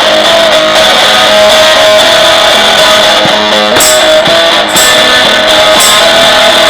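Fuzz-distorted electric guitar strummed and played loudly and steadily, with a few short tambourine shakes about four and five seconds in.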